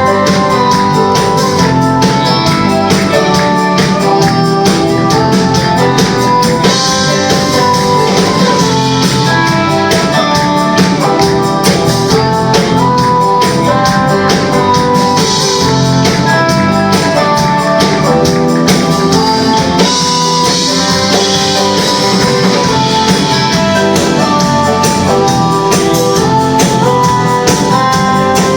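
Live band playing an instrumental passage: guitar melody over a steady beat, with tambourine.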